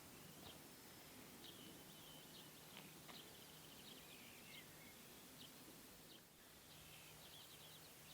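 Faint birdsong: many short chirps and trills, heard against near-quiet background noise with a faint low hum.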